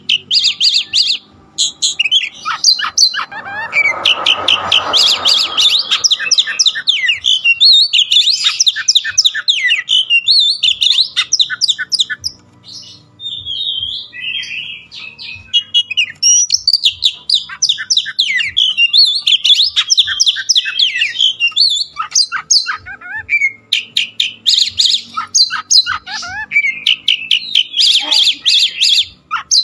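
A songbird singing a loud, rapid, varied song of quick trills and chirps, with a short lull about halfway through. A burst of rustling noise sounds under the song a few seconds in.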